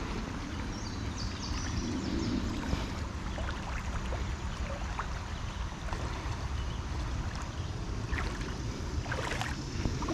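Steady noise of shallow creek water, with a few faint ticks.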